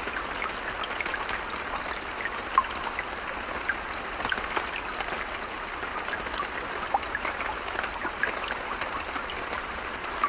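Steady rain falling, with many separate drops ticking close by over an even hiss.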